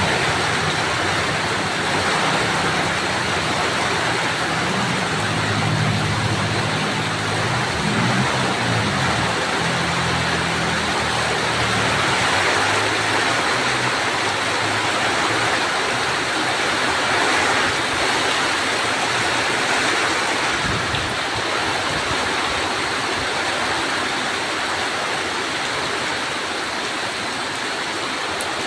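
Heavy rain falling steadily, an even hiss. A low engine hum runs under it for about the first ten seconds, then fades.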